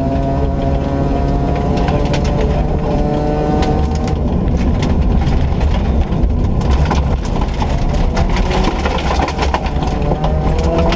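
Ford Ka rally car at speed: the engine pulls through a gear with its pitch climbing over the first four seconds, then eases off, and a new gear's pitch appears near the end. Constant road and tyre noise runs underneath, with many sharp ticks and knocks.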